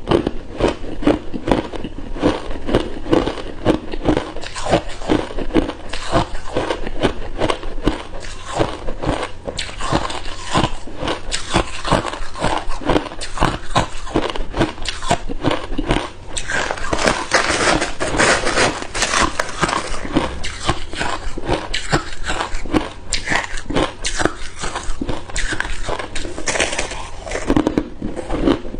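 Hard ice cubes being bitten and chewed, a dense, continuous run of crunches, sharper and brighter for a few seconds past the middle.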